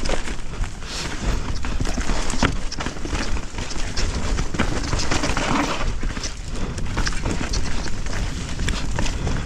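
Mountain bike riding down a rough, wet trail: tyres on dirt and roots, with the bike rattling and irregular knocks and clatter over a steady low rumble.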